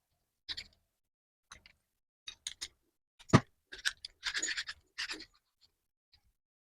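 Hand work on a metal bench vise: irregular small clicks and scrapes of metal parts, with one sharp knock about three seconds in and a short stretch of scraping just after it.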